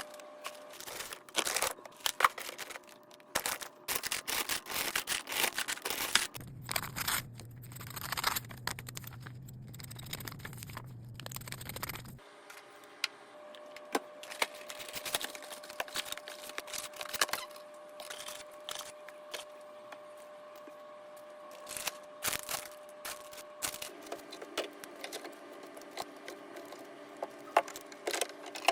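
Groceries and their plastic and cardboard packaging being handled and put away: rustling, scraping, and many short knocks and clinks, with a faint steady hum under parts of it.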